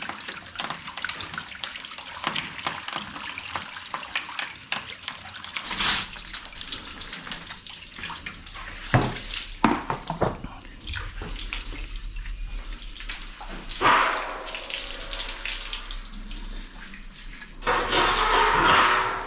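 Running tap water splashing over washing-machine parts as they are washed, with louder surges of spray a few times and a few sharp knocks of parts being handled about halfway through.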